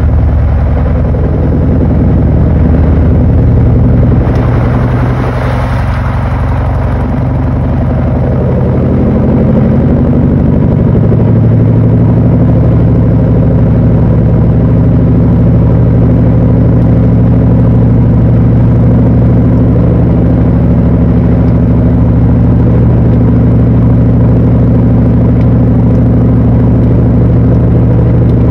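Panasonic NA-FA80H8 top-loading washing machine running mid-cycle, a loud steady motor hum. Its pitch steps up about ten seconds in, then holds steady.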